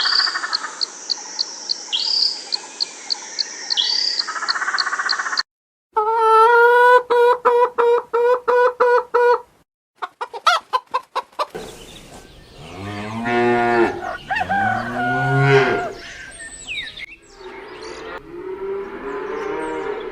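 Farm animals calling one after another: a chicken clucking in a quick run of pulses, then a cow mooing twice, with other short animal sounds before and after.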